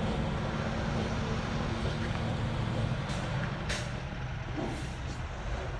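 Vehicle engine idling steadily, with two short hisses a little after three seconds in.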